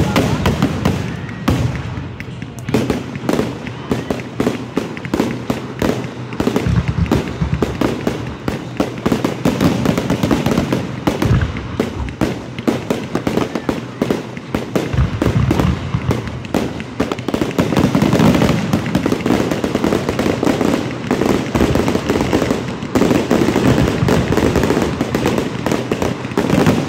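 Aerial fireworks going off in a continuous barrage: many bangs and crackles in quick succession, getting busier in the last third.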